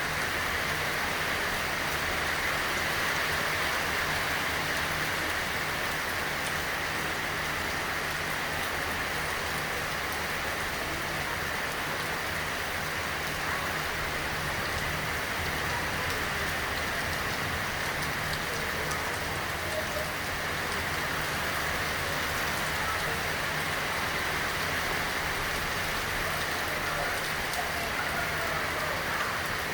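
Steady rain falling on surfaces, an even hiss that keeps up without a break.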